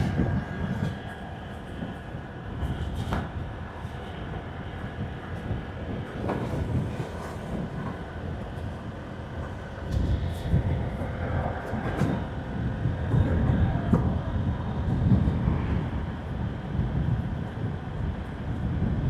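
Road noise of a motorbike ride: the bike's engine running and its tyres on the road, under heavy, uneven wind rumble on the microphone that grows louder about ten seconds in and again from about thirteen to sixteen seconds in.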